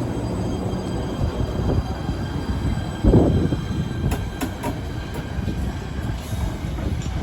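A train running past: a continuous low rumble with a sudden loud bang about three seconds in. A faint high wheel squeal runs through it, and sharp clicks of wheels over rail joints follow.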